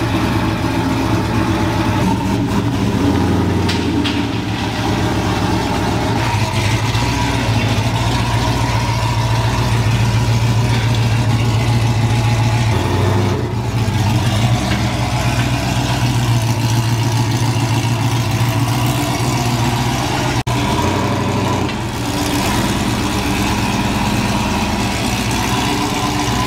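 Pickup truck engine idling steadily, its note shifting briefly a few times: about three seconds in, about halfway, and again near the end.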